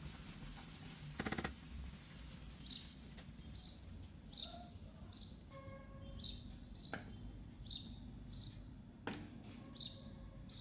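A small bird chirping a short, high note over and over, about one to two chirps a second. There is a brief clatter about a second in and a couple of faint knocks later.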